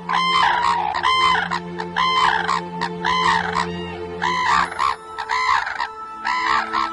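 Cranes calling: a steady series of loud, repeated arched calls, one after another without a break.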